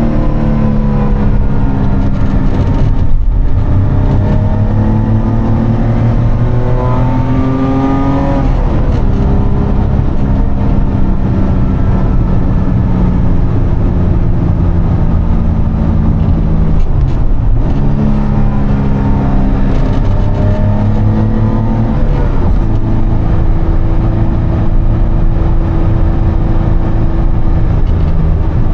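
BMW E30 325i's M20B25 2.5-litre straight-six through an Eisenmann exhaust with the catalytic converter deleted, pulling through the gears while driving. The engine pitch climbs under acceleration and falls back at each gear change, several times, with steadier cruising stretches in between.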